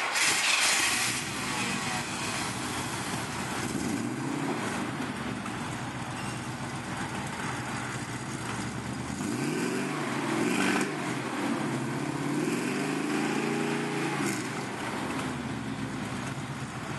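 1985 Chevy C30's 454 big-block V8 running through Bassani BX mufflers, idling and revved several times, its exhaust note rising and falling, mostly in the second half.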